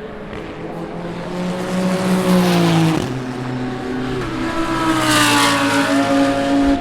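Race cars passing at speed under power, one after another. Their engine notes swell to two loud peaks about two and a half and five seconds in, with pitch drops as they go by.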